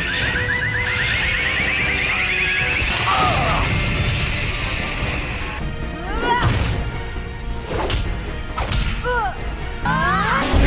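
Cartoon fight soundtrack: music under a long rising shriek during the first three seconds, then short cries and a couple of sharp hits.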